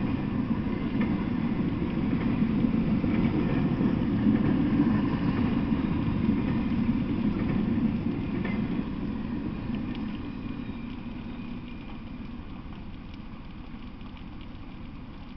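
Intermodal freight train of flatcars carrying highway trailers rumbling past on the rails. The rumble fades steadily from about eight seconds in as the end of the train goes by.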